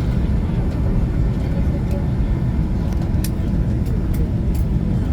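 Airliner cabin noise: a steady low rumble from the aircraft on the ground before takeoff, with a few faint ticks in the second half.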